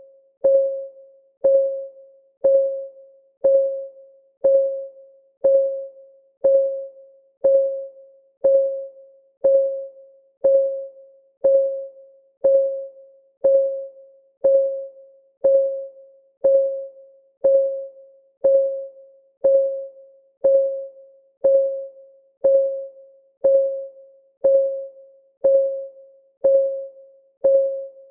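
A countdown timer's clock-ticking sound effect, one tick each second. Each tick is a short, pitched tone that dies away quickly.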